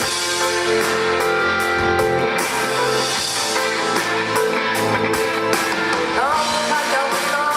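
Live rock band playing an instrumental passage between sung lines, with guitar prominent and a note gliding upward about six seconds in.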